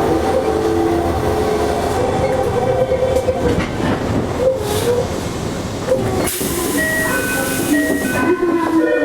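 Toei 5300 series subway train running, heard from inside the car: wheel and track rumble with the wavering whine of its GTO inverter traction motors. About six seconds in a band of hiss rises, and higher tones come in short steps.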